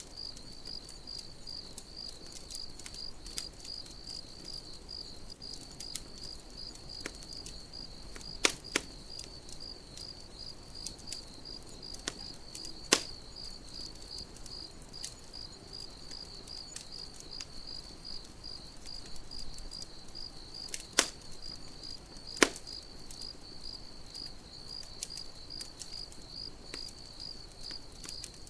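Campfire crackling with scattered small snaps and four loud sharp pops, over crickets chirping in a steady, even rhythm.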